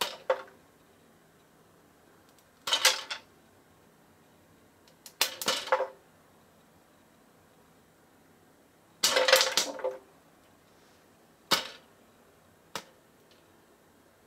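Crisp home-popped popcorn being crunched between the teeth close to the microphone, in three bursts of chewing a few seconds apart, the last the longest, followed by a couple of single crunches near the end.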